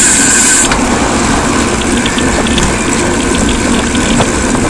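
Steady, loud road noise from a bicycle-mounted camera while riding on a road with motor traffic, with a brief high hiss in the first second.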